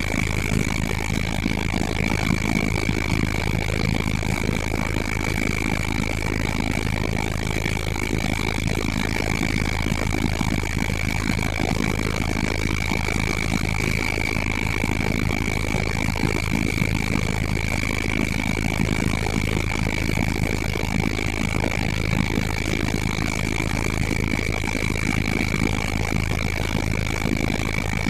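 Helicopter in flight: a constant loud drone of rotor and engine with a steady high-pitched whine over it.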